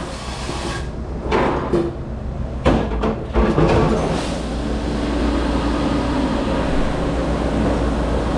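Dishes and metal or plastic dish racks clattering and knocking several times, then, from about three and a half seconds in, a steady rushing of water spray and a low machine hum from a commercial dish-room washer.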